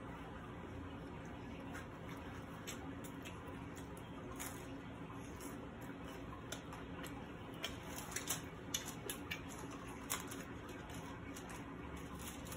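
A person chewing a mouthful of flatbread with lips closed, with faint wet mouth clicks and smacks that come more often a little past the middle, over a steady low room hum.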